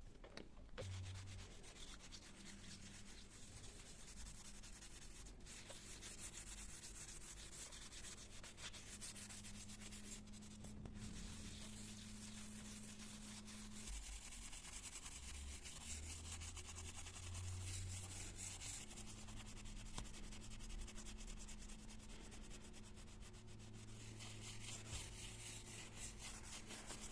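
Continuous scratchy rubbing of a cloth or brush against a surface, as in hand cleaning, going on steadily with a quick, rapid texture, with a faint low hum underneath.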